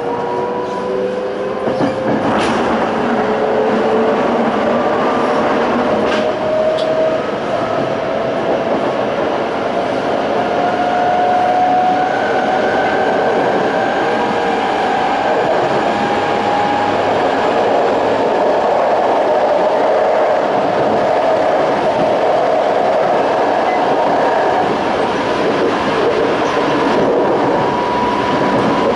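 Toei 5300 series EMU running under power, its GTO-VVVF inverter and traction motors whining over steady wheel-and-rail rumble. The whine rises slowly in pitch as the train gathers speed, with a few brief clacks from the track early on.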